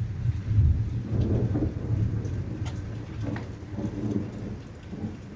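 Thunder rumbling low and rolling away, fading toward the end, over steady rain.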